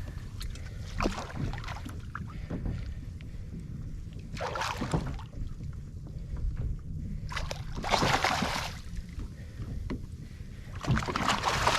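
Water splashing around a kayak at sea, in three longer bursts, over a steady low rumble.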